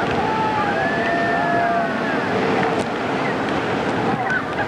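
Steady loud rushing roar of churning water and a tour motorboat's engine on the river below the Iguazu falls. A few high, drawn-out calls slide up and down in pitch over it.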